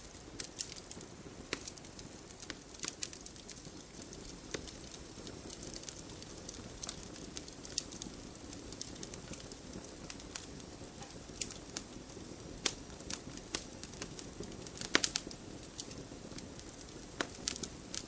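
Wood fire burning in a fireplace: a steady low rush of flames with irregular crackles and sharp pops, a cluster of louder pops about fifteen seconds in.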